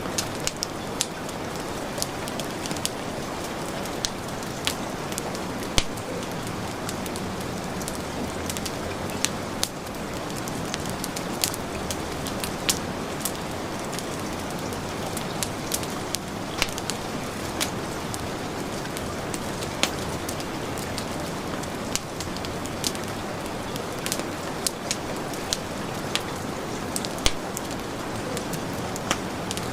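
Steady heavy rain hissing, mixed with a wood fire crackling in sharp, irregular pops and snaps.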